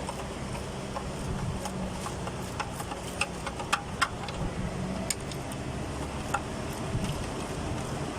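Scattered sharp metallic clicks and clinks of hand tools working on an engine, over a steady low hum. The clicks bunch up in the middle, and a few are louder.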